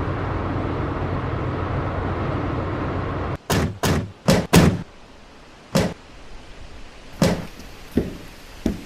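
A steady rumble that stops abruptly about three and a half seconds in, then a string of about eight sharp knocks and thuds at uneven intervals.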